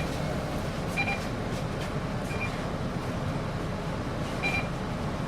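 Steady hum and air rush of a city bus's air conditioning with the engine rumbling underneath, heard from inside the cabin. Four brief high chirps are heard over it.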